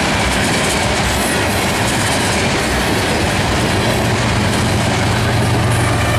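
Freight train tank cars rolling past at close range, a steady rumble of steel wheels on the rails. From about four seconds in, a steady low diesel engine hum builds as a locomotive in the train draws level.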